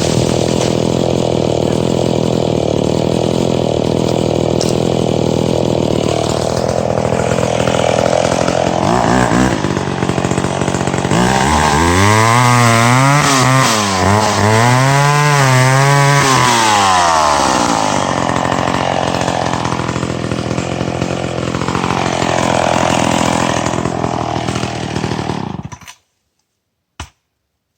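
Two-stroke chainsaw running hard while cutting dead ash, its engine pitch swinging up and down in the middle as the revs rise and fall. It shuts off abruptly about 26 seconds in.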